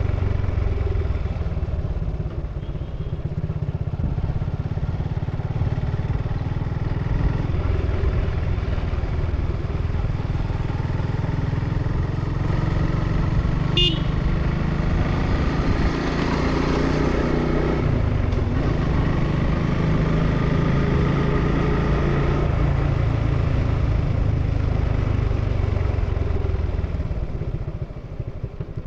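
Suzuki Gixxer motorcycle on its stock exhaust, running steadily while being ridden. A brief high horn beep sounds about halfway through, and the engine note drops away near the end.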